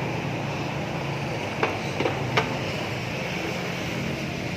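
Three short, sharp clicks or knocks, the last the loudest, over a steady low background hum.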